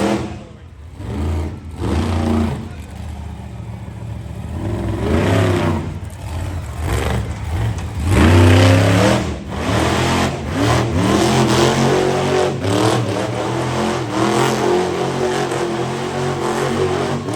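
Monster truck engine revving hard in repeated bursts, its pitch climbing and dropping again and again, loudest about eight seconds in.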